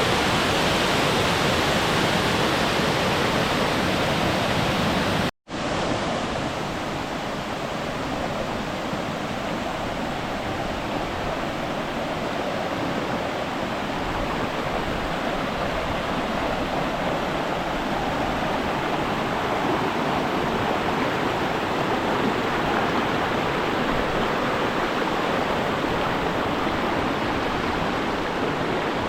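Steady rushing of falling or flowing water. About five seconds in, the sound cuts out for an instant and resumes slightly quieter and duller.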